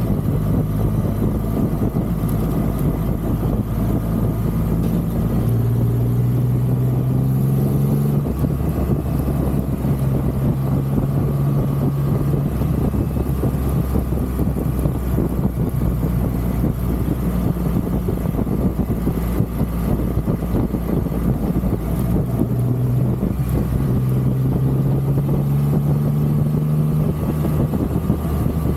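Triumph Rocket 3 motorcycle's inline three-cylinder engine running on the move, with steady wind rush on the microphone. The engine note climbs, drops back about eight seconds in as it changes up a gear, and climbs again near the end.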